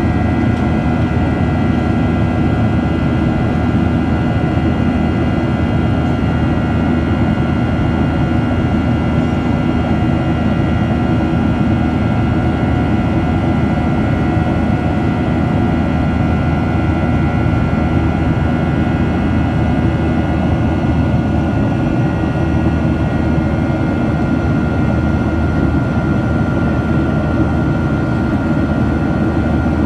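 Boeing 737-800 cabin noise: the CFM56-7B jet engines and airflow give a steady rumble with a constant high whine over it, unchanging throughout.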